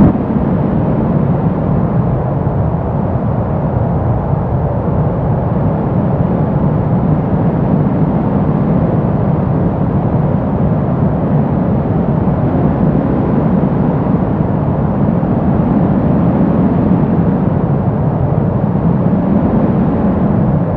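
Brown noise: a deep, steady rush with no tones in it, its low end swelling and easing slowly.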